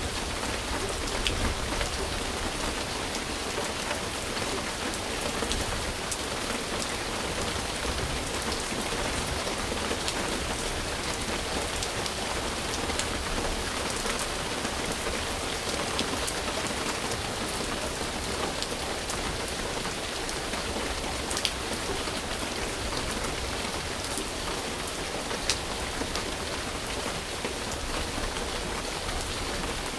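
Steady rain falling with an even hiss, with sharper single drops landing close by now and then, two standing out in the second half.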